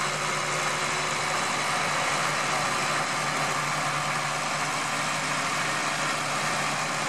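Antique farm tractor engine idling steadily while the tractor is unhooked from the pulling sled.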